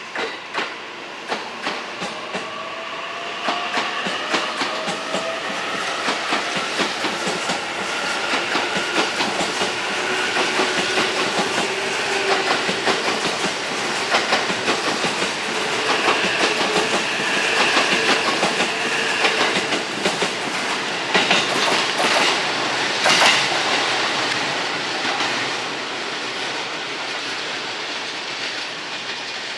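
Electric train running past, its wheels clicking steadily over the rail joints, with a whine that rises in pitch. It grows louder toward the middle and then fades.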